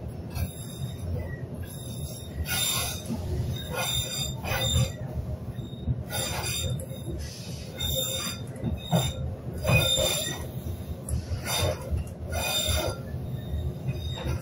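Narrow-gauge train running: a steady low rumble of wheels on track, with sharp high screeching surges every second or two as the wheels squeal against the rails.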